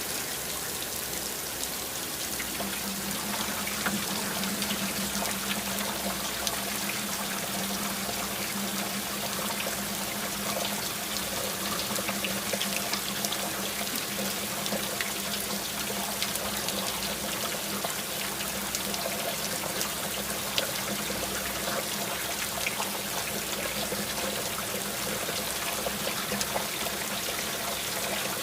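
Steady rain, with water trickling and pouring and many small drop ticks, over a steady low hum.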